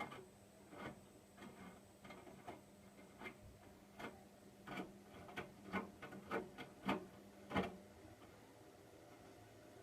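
Hotpoint washing machine turning its load on a cotton 20 wash: a run of irregular clicks and knocks from the drum over a low hum, growing louder towards the end. Both stop about eight seconds in.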